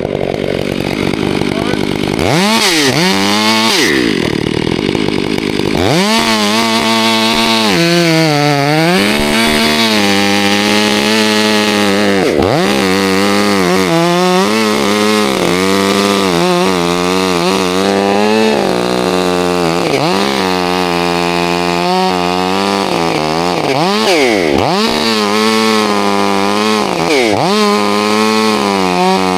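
Two-stroke chainsaw cutting through a trunk on a release cut. It runs lower for the first couple of seconds, then revs up, its pitch sagging and recovering many times as the chain loads and frees in the wood.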